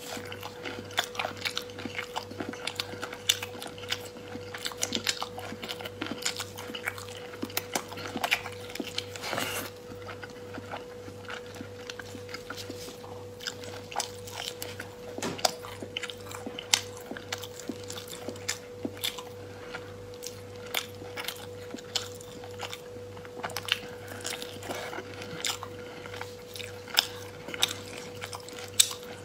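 Close-up mouth sounds of biting and chewing toasted bread with braised pork belly: irregular crunches, crackles and wet chewing clicks. A faint steady hum runs underneath.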